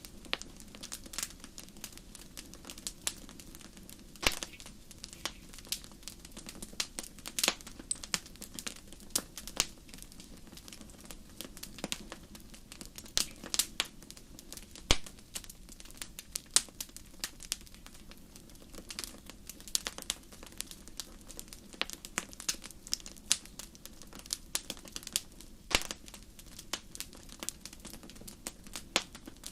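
Wood fire in a fireplace crackling, with a steady low hiss of burning under many irregular sharp snaps and a few louder pops, for example about four seconds in, near fifteen seconds and near twenty-six seconds.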